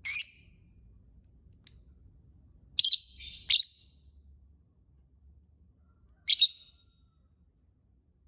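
Lovebird giving short, shrill, high-pitched chirps: five separate calls, two of them in quick succession about three seconds in, with pauses between.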